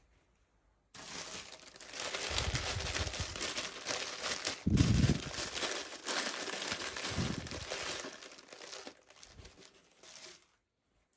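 Toy packaging crinkling and rustling as it is handled and unwrapped, with a few soft low thuds, starting about a second in and dying away near the end.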